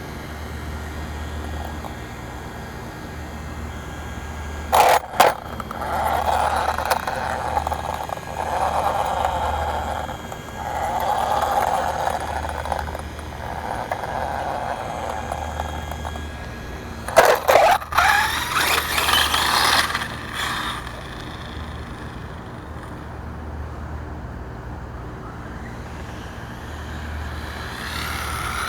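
Large-scale electric RC monster truck running on an 8S battery: its brushless motor whines in bursts, with sharp knocks about five seconds in and again about seventeen seconds in, where the whine glides in pitch.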